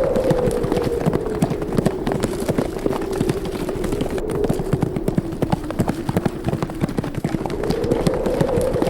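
Horses galloping, many rapid hoofbeats, over a howling wind whose pitch sinks and then climbs again near the end.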